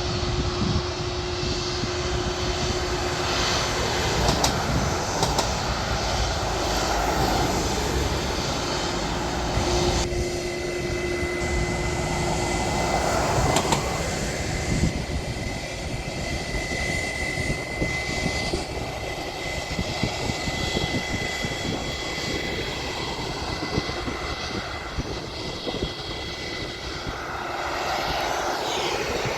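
Jet airliner engines running, a steady broad rumble with a faint high whine held through the middle.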